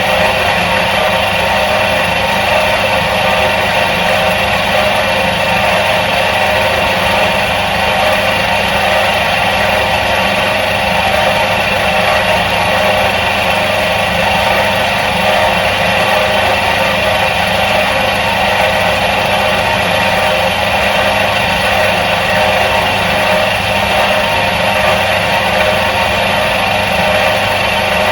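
Electric motor of a 1977 Soviet washing machine running at a steady speed, an even, unchanging mechanical hum.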